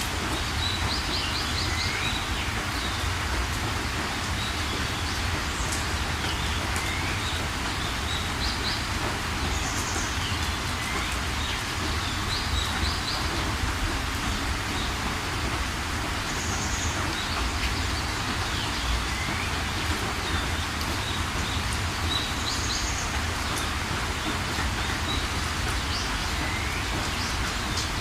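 Steady rain hiss with a low rumble underneath, and birds calling every few seconds over it: short quick runs of high notes, brief rising chirps and single high tweets.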